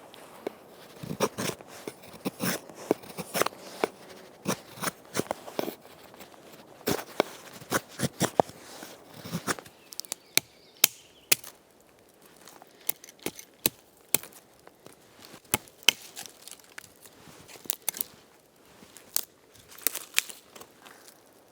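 Firewood being chopped and split: a run of sharp, irregular cracks and knocks, denser and heavier in the first half and sparser, crisper clicks after about ten seconds.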